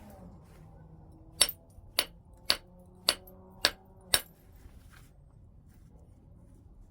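White chert being struck in flintknapping: six sharp, clinking blows at about two a second, then they stop.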